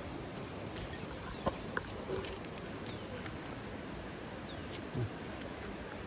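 Steady outdoor background noise with a few short, faint bird chirps scattered through, and a brief soft low sound about five seconds in.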